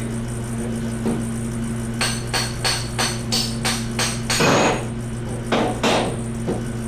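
Hammer tapping on metal: about seven sharp blows at roughly three a second, followed by a heavier knock and a few scattered knocks, over a steady low hum.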